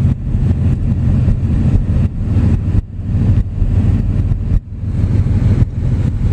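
Car cabin noise while driving on a snowy road: a steady low rumble of engine and tyres, briefly dropping twice midway.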